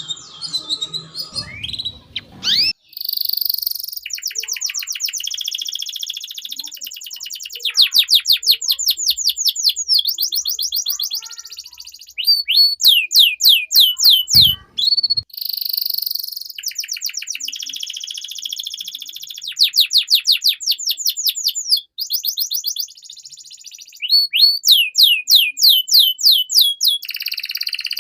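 Domestic canary singing a long, continuous song. It strings together fast trills, buzzy rolls and rows of quick falling notes, phrase after phrase with only short breaks. A single brief low knock comes about halfway through.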